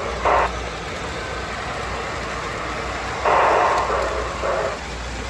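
Busy exhibition-hall ambience: a steady background crowd murmur over a low hum, with short louder bursts just after the start and again about three seconds in.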